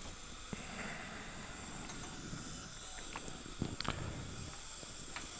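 Steady hiss of dental operatory equipment, with a few light clicks of metal instruments between three and a half and four seconds in.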